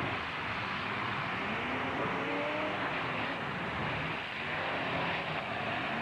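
Demolition derby trucks' engines running and revving over a dense wash of noise, with one engine rising in pitch about two seconds in.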